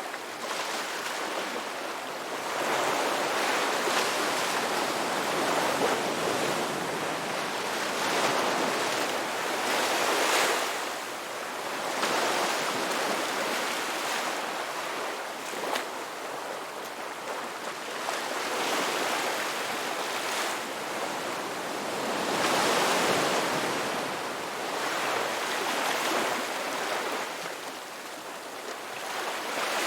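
Ocean waves breaking and washing on the shore, a continuous rush that swells and eases every few seconds.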